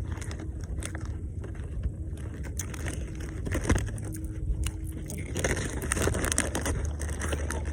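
Low steady wind rumble on the microphone, with scattered clicks and rustles that grow busier after about five seconds.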